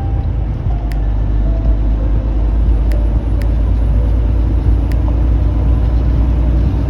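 Semi truck's diesel engine and road noise heard from inside the cab while driving: a steady low rumble that builds slightly about a second in, with a few faint clicks.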